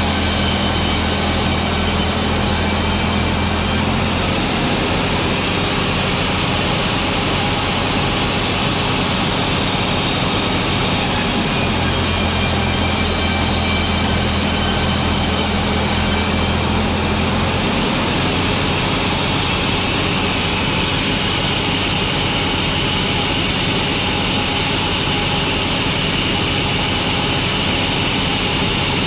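Sawmill machinery running continuously while boards are cut. A deep motor hum drops out about four seconds in, comes back about halfway through, then drops out again.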